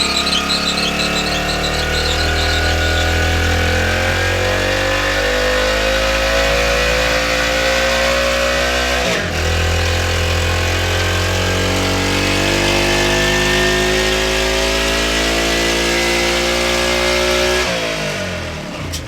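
Large-flywheel stationary diesel engine running steadily, its pitch slowly rising as it picks up speed. There is a brief break about nine seconds in, and the engine sound falls away shortly before the end.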